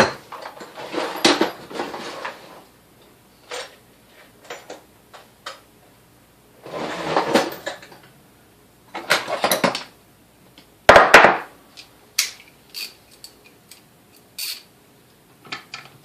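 Metal clatter and clinks of hand tools and parts on a workbench, with a sharp loud knock about two-thirds of the way through and scattered small clicks after it. The sounds come as a socket is fetched and used on the 9/16 nut holding the rear cap of a vintage Sunbeam Mixmaster mixer's motor.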